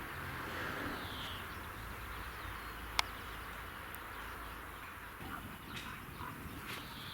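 Outdoor ambience: a steady background hiss with a few short bird calls, and a single sharp click about three seconds in.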